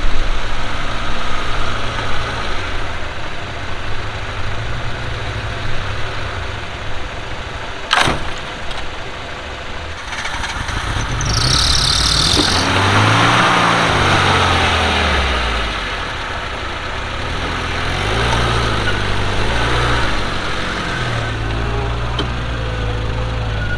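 4x4 engine running off-road, its note rising and falling with the throttle, with a sharp knock about eight seconds in and a brief high hiss a few seconds later.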